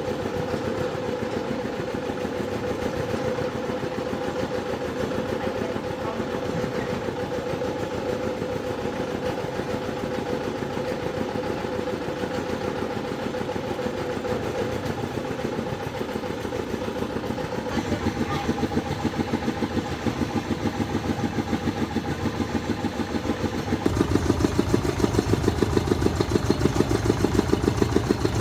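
An engine running steadily. About 24 s in it turns louder, with a fast, even chugging pulse.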